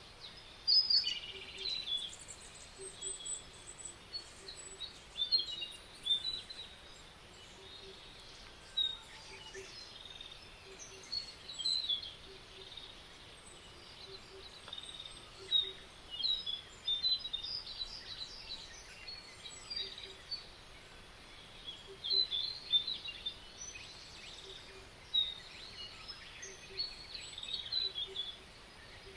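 Several songbirds singing and calling in a spring forest: many short chirps and trills overlapping, some louder nearer calls standing out, over a faint steady hiss.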